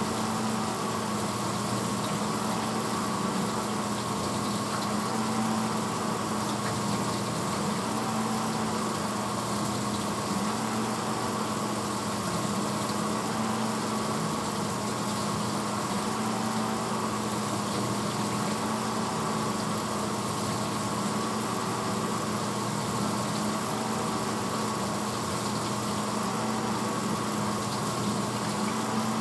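1986 Hotpoint Potwasher dishwasher running mid-cycle: its pump motor gives a steady hum over the noise of wash water.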